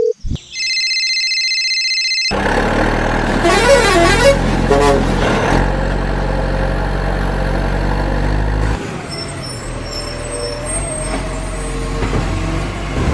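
Cartoon sound effects: a short high electronic beep, then a heavy vehicle's engine running, with a wavering horn toot about four seconds in. The engine's deep rumble drops away a little before nine seconds, leaving lighter running noise.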